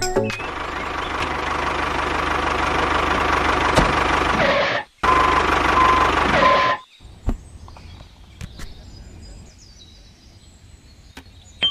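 A small machine running steadily with a low hum, stopping abruptly about five seconds in. It runs again briefly, then gives way to a much quieter stretch with a few faint clicks.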